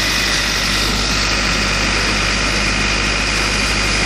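An engine running steadily at idle, with a constant hum and a thin steady whine above it.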